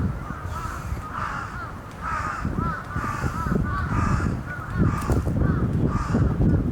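Birds calling in a dense chorus: many short calls rising and falling in pitch, overlapping one another, over a gusty low rumble of wind on the microphone.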